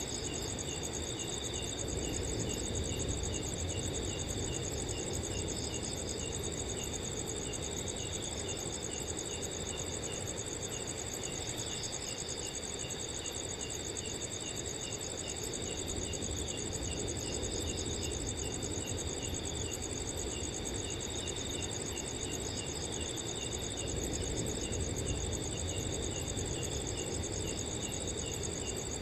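Several crickets chirping steadily at once: a continuous high trill over a slower, regular chirp repeating about two to three times a second. Beneath them a soft, low rumble of wind.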